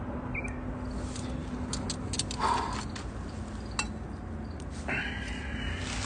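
Wood campfire crackling, with scattered sharp pops and snaps. A brief louder sound comes about two and a half seconds in, and a higher-pitched sound lasting about a second near the end.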